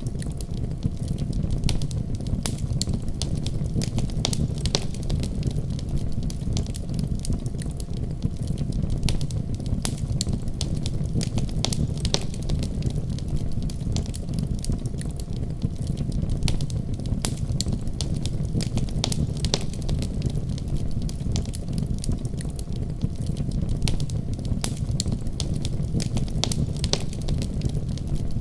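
Wood fire crackling: a steady low rumble of flames with frequent sharp, irregular pops and snaps from burning logs.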